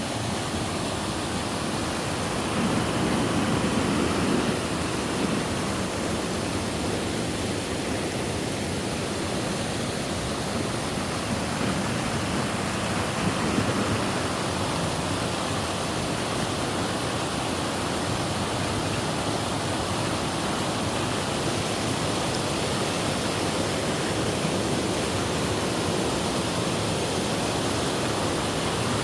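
A waterfall's steady rushing water, swelling slightly a few seconds in.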